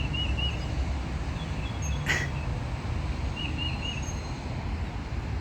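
A songbird singing a short phrase of three or four quick high chirps, once at the start and again about three and a half seconds in, over a steady low rumble. One sharp, short sound comes about two seconds in.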